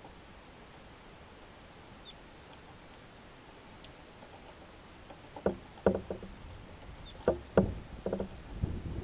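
Great tits hopping and pecking on a wooden feeder tray: a run of irregular hollow wooden knocks starting about halfway through, after a few faint high bird calls.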